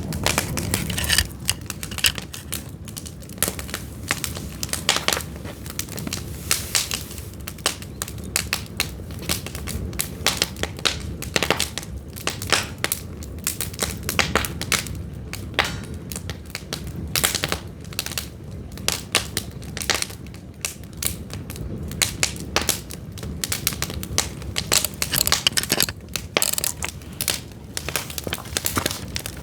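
Pine firewood burning, crackling with frequent irregular sharp pops over a low steady rumble.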